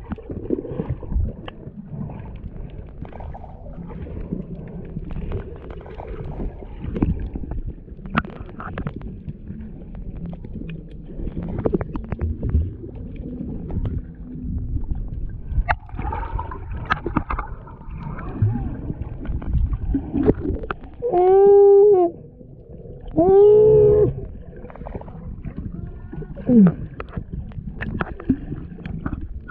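Wind on the microphone and water noise aboard a moving boat. Two loud, arching pitched calls come about two-thirds of the way in, each rising and then falling over about a second.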